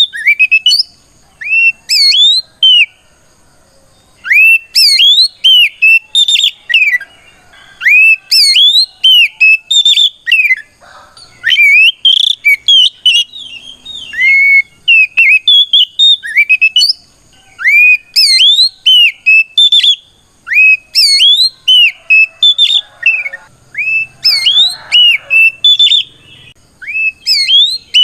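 Oriental magpie-robin (kacer) singing a loud, full whistled song in repeated phrases of quick, sweeping, rising notes, with short pauses between phrases. This is the 'ngeplong' challenge song that a male uses to call out a rival.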